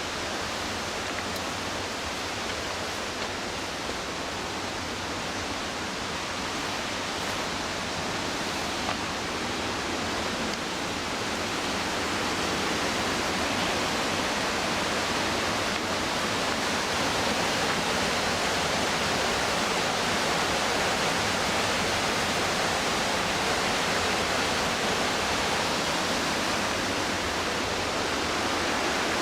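Steady rush of the McKenzie River's fast-moving whitewater, a dense, even sound of water that grows a little louder about halfway through.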